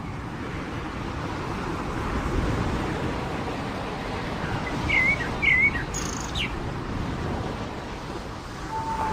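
Steady wash of surf on a beach, swelling and easing slowly, with a bird giving a few short chirps about halfway through.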